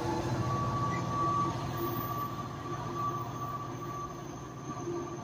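NJ Transit PL42AC diesel locomotive and its commuter train pulling away along the track. The engine's drone and the running of the train carry a steady high whine, and the sound fades gradually as the train recedes.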